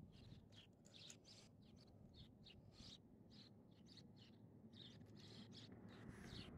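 Faint birds chirping: many short calls in quick succession over a low background hiss.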